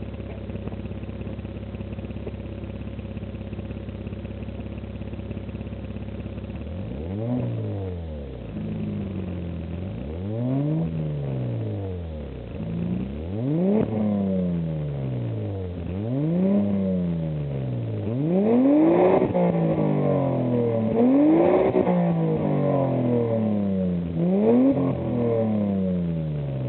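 1993 Ford Probe GT's 2.5-litre 24-valve V6, warm, idling steadily through a new Magnaflow exhaust whose muffler is not yet burned in. About seven seconds in it is revved in repeated blips, about seven of them, each rising and falling back.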